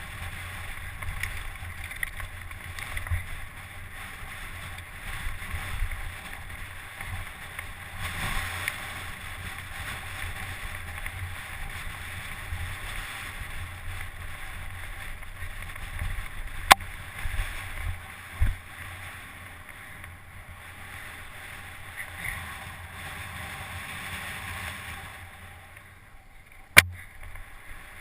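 Steady wind buffeting on the microphone over a low rumble, broken by two sharp clicks, one about two-thirds of the way through and one near the end, and a dull knock between them.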